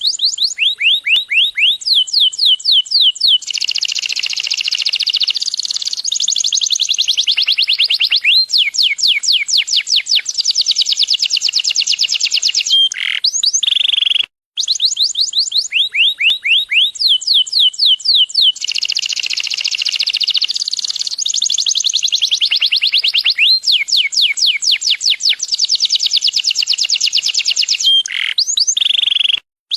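Yellow canary singing a long, continuous song of fast trills made of quick repeated sweeping notes, broken by brief pauses near the middle and near the end.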